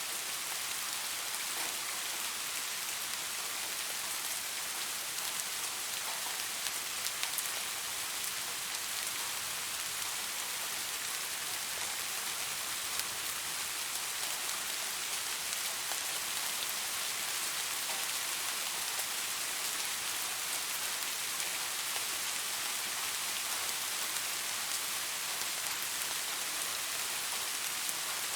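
Steady light rain: an even hiss of falling rain with scattered small drop ticks.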